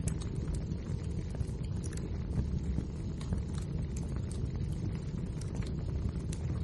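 Wood fire burning, with frequent small sharp crackles and pops of the logs over a steady low rumble.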